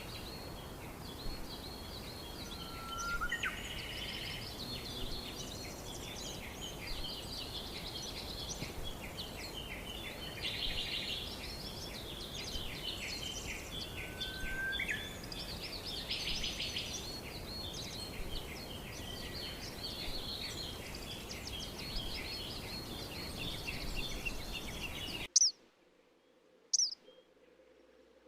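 Many small birds chirping and trilling at once over a steady background hiss, with a couple of lower rising whistled notes among them. About 25 seconds in the recording cuts abruptly to a quiet one with loud, sharp single chirps, three of them, each falling in pitch.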